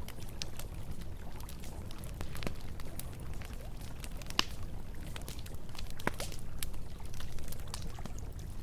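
Wood campfire crackling with irregular sharp pops, one louder pop about halfway, over the steady low rush of river water.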